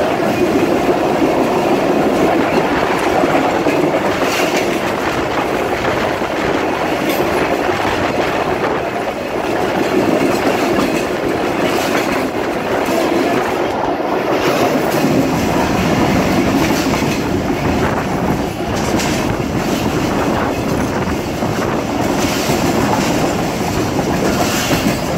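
Passenger train running along the track, heard from on board: a steady, loud rolling noise of coaches and wheels on the rails, with repeated clicks as the wheels pass over rail joints.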